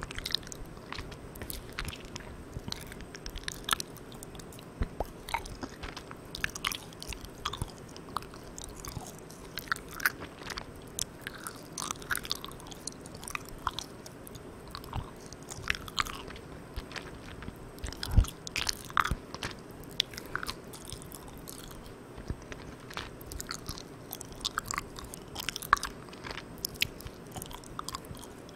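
Close-miked chewing of Malang Cow soft, sticky chewy candy: irregular wet clicks and smacks of the mouth and teeth working the candy, with one sharper knock about two-thirds of the way through. Underneath runs a steady hiss from the recorder's gain being turned all the way up.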